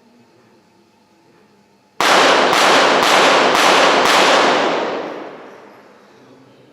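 Five rapid .22 Short pistol shots about half a second apart: one rapid-fire pistol series, fired at five targets. The shots' echo dies away over about two seconds.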